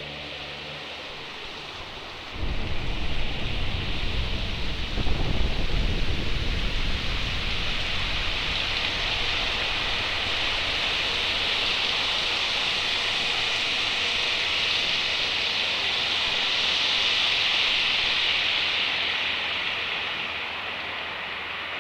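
Rain-and-thunder sound ending an electronic space-music track. The last synthesizer notes die away in the first second, then a low rumble of thunder breaks in about two seconds in and rolls for several seconds. Under it a steady rain hiss swells and slowly fades near the end.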